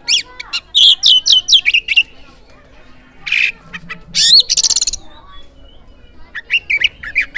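Oriental magpie-robin (kacer) song: loud clusters of quick whistled notes sweeping up and down, with a fast rattling trill about four seconds in.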